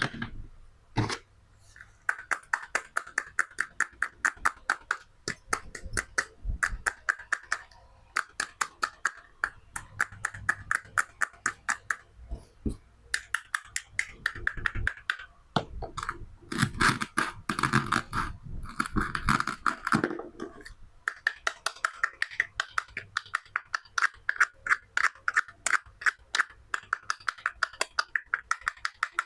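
Toy knife cutting play fruit and vegetables: rapid runs of clicking, scraping strokes against the toy food and cutting board, broken by short pauses and a few heavier thuds.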